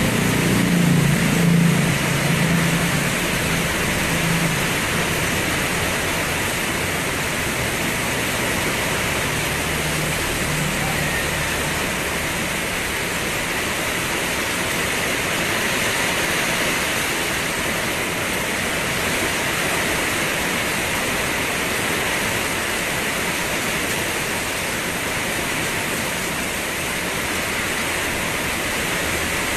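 Steady rain falling, an even hiss. A low rumble rises under it in the first few seconds and fades by about four seconds in, with a fainter one around ten seconds.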